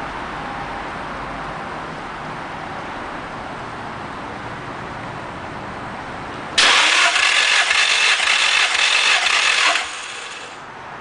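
Nissan SR20DET engine turned over on the starter motor for a compression test: partway through, a loud, fast, even cranking starts suddenly, runs about three seconds without the engine firing, then stops.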